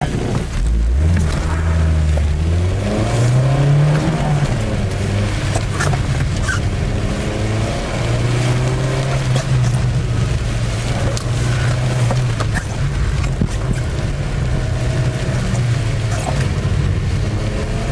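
1984 VW Jetta's four-cylinder engine, heard from inside the cabin, driven hard: the pitch climbs over the first few seconds as it accelerates, then rises and falls with the throttle.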